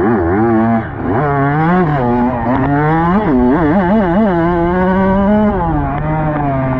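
Dirt bike engine being ridden, its pitch rising and falling over and over as the throttle is worked, settling to a steadier tone about five seconds in.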